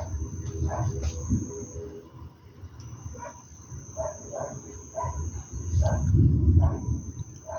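Short animal calls repeated irregularly, about a dozen in all, over low-pitched noise that swells about six seconds in.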